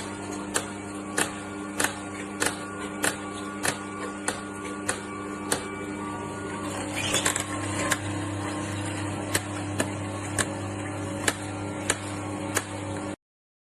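Cold-press slow juicer running: a steady motor hum with a sharp click repeating about every 0.6 s, and a brief louder rattling noise about seven seconds in. The sound cuts off suddenly near the end.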